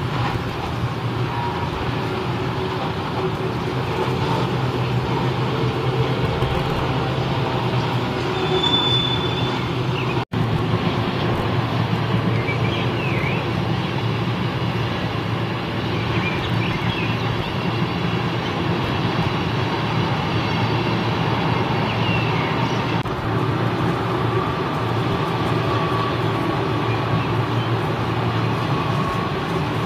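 Electric passenger trains rolling past at low speed: a steady rumble of wheels on rail with a low hum, and a few brief high wheel squeals. The sound drops out for an instant about ten seconds in.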